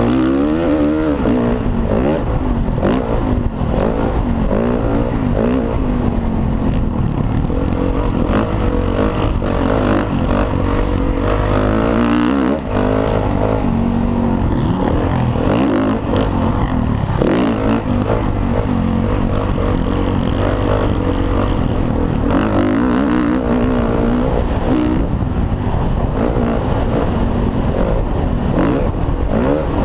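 Motocross dirt bike engine running loud and close, revving up and down over and over with no break, as under race throttle.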